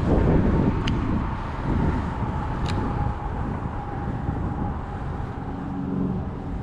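Outdoor wind rumble on the microphone with a low steady hum like distant road traffic, and two faint ticks about two seconds apart.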